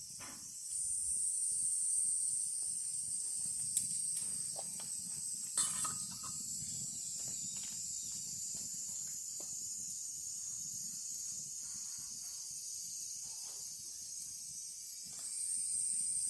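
Insects, likely crickets, singing a steady high-pitched trill that swells about a second in and again near the end, with a couple of faint clicks partway through.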